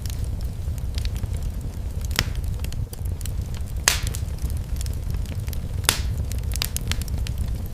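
Fire in a fireplace crackling, with a steady low rumble under scattered sharp pops; the loudest pops come about four and six seconds in.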